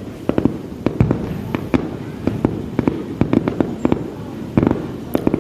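Aerial fireworks display: a rapid, irregular string of bangs and pops, several a second, over a continuous low rumble, with a cluster of louder bursts near the end.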